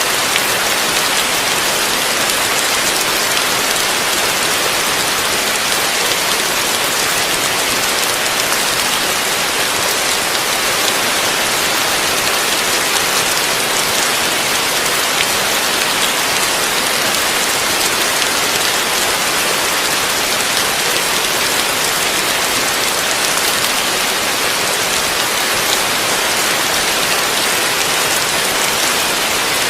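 Heavy rain falling steadily, a dense even hiss of drops on surfaces with no thunder or breaks.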